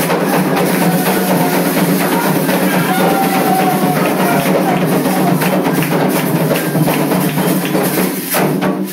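Candomblé ritual drumming on atabaque hand drums, a dense fast rhythm of many strokes, which stops abruptly near the end.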